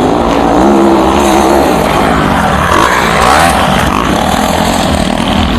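Motocross dirt bike engines running loud and buzzing, their pitch wavering up and down as the throttles are worked.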